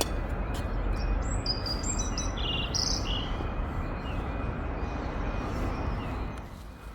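A bird chirping a short run of high stepped notes over a steady background rumble that fades near the end, with a faint beep repeating about twice a second.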